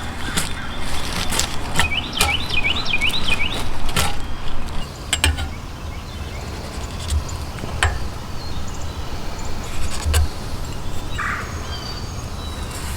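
Sharp, irregular knocks of hand tools working a wooden bow stave, about half a dozen over the stretch. A songbird sings a warbling trill early on, over a steady low rumble.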